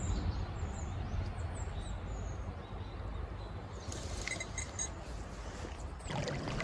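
Small birds chirping over a steady low rumble. From about four seconds in there are denser high calls and a few clicks.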